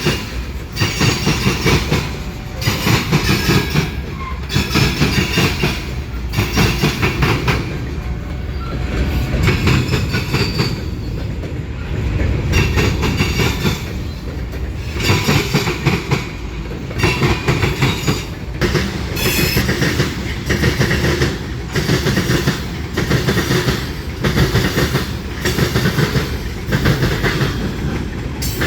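Freight train cars rolling past close by: a steady rumble with wheels clacking over rail joints in repeating groups, roughly every second or two.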